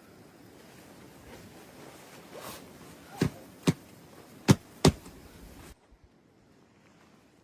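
Four sharp knocks in two pairs over a steady hiss; the hiss cuts off suddenly a little after the last knock.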